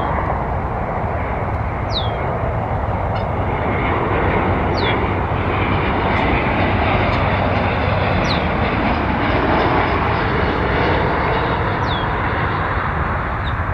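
Aircraft engine noise: a steady rushing sound that grows a little louder midway. A short, high, downward-sliding chirp repeats every two to four seconds over it.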